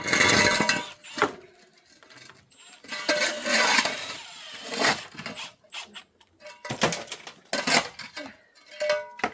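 Irregular clinks, knocks and scrapes of tools and window parts being handled during a UPVC window fitting, with short rattling bursts and no steady machine rhythm.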